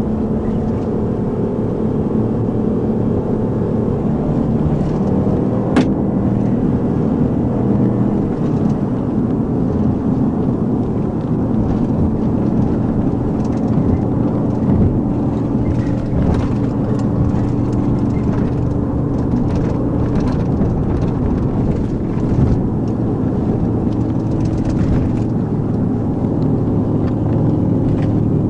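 Police patrol car driving at high speed in a pursuit, heard from inside the cabin: a steady engine drone over heavy road and tyre noise, with one sharp click about six seconds in.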